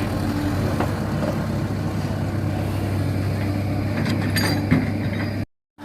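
Heavy diesel engines of an excavator and dump truck running steadily, with a few short clanks near the end. The sound drops out for a moment just before the end.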